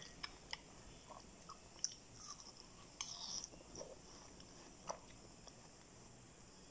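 Faint chewing and soft wet mouth clicks of someone eating bite-sized chunks of watermelon, a few small scattered clicks rather than a steady sound.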